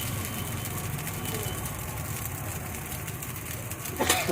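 A steady low rumble, with a little voice in the background; about four seconds in, the metal clatter of a wok being stirred starts as the fried rice goes on to fry.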